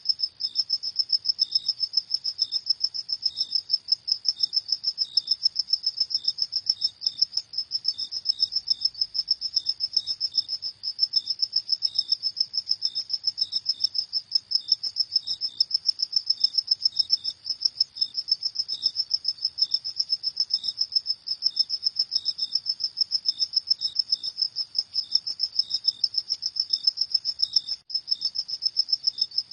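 Crickets chirping in a fast, steady pulsing trill, with a second, lower-pitched chirp repeating alongside it.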